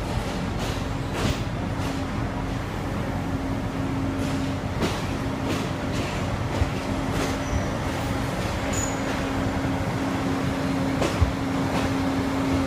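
A diesel-hauled passenger train rolling slowly, heard from on board: a steady rumble with a low engine drone and scattered sharp clacks of the wheels over rail joints and points.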